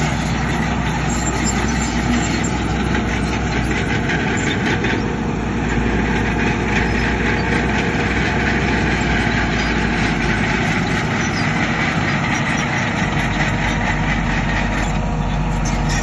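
Heavy earthmoving machinery's diesel engine running steadily, with a shift in its note about five seconds in.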